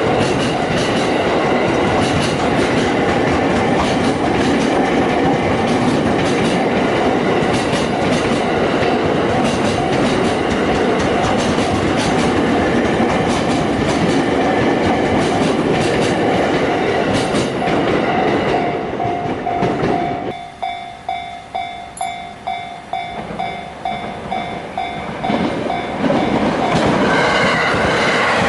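A train runs past over a Japanese railway level crossing while the crossing's electronic warning bell keeps ringing. About twenty seconds in the train noise falls away, leaving the bell's clang repeating about twice a second. Near the end the noise of another train swells up.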